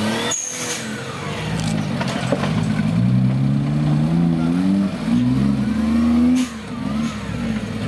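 Suzuki Jimny trial vehicle's engine revving up and down under load, its pitch climbing for several seconds and then dropping off sharply about six seconds in before picking up again.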